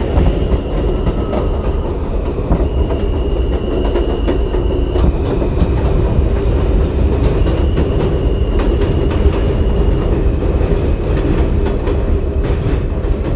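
NYC subway train running between stations, heard from inside the car: a steady loud rumble with wheels clacking over rail joints and a thin high whine that steps between two pitches.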